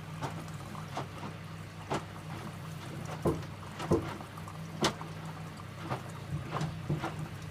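Electrolux W455H commercial washing machine turning its drum mid-wash: a steady low hum under water sloshing and the load dropping inside the drum, with an irregular knock about once a second. The loudest knocks come about four and five seconds in.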